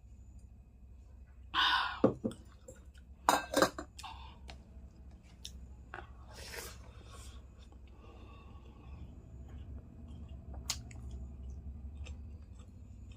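Close-up eating sounds: chewing, with a few loud short bursts in the first few seconds and scattered sharp clicks of cutlery against a dish.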